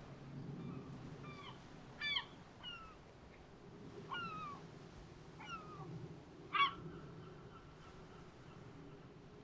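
Herring gulls calling: about seven short mewing calls, each falling in pitch, the loudest about two seconds in and again near seven seconds, over a faint steady low hum.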